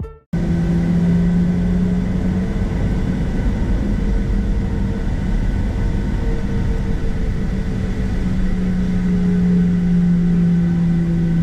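Steady engine drone and airflow noise inside the cabin of a Boeing 737-700 airliner in flight, with a low steady hum from its CFM56-7B engines. It cuts in abruptly a moment in.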